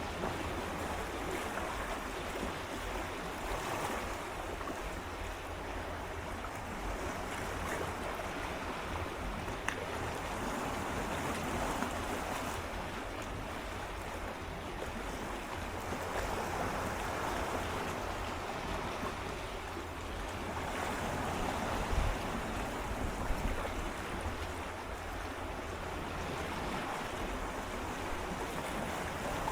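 Gentle sea waves swirling and lapping against shoreline rocks, swelling and easing every few seconds, with occasional small splashes and a low rumble of wind on the microphone.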